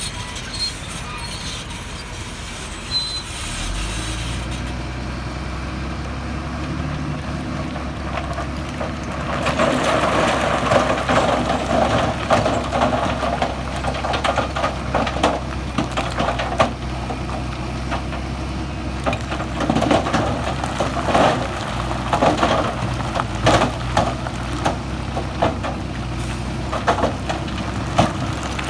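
Heavy diesel machinery running steadily while stones are moved. From about ten seconds in, rocks clatter and grind in irregular knocks over the engine.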